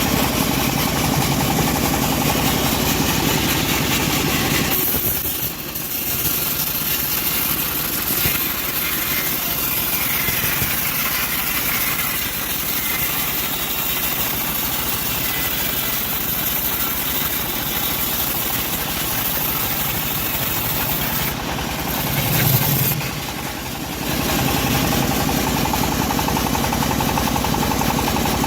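Engine-driven bandsaw sawmill running steadily. From about five seconds in, the low engine drone thins out and a steady high hiss comes up; a little before the end the fuller engine sound returns.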